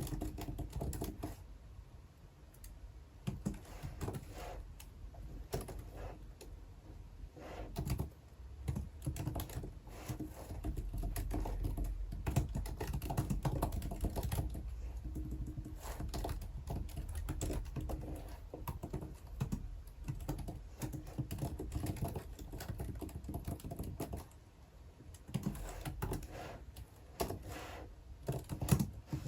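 Computer keyboard typing: a steady run of quick key clicks, busiest through the middle, over a low room hum.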